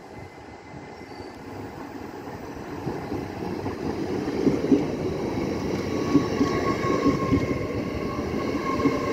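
Hull Trains Class 802 bi-mode train pulling into the platform. It grows louder as it approaches over the first few seconds, then its coaches run close past with short wheel knocks and a few high steady tones in the second half.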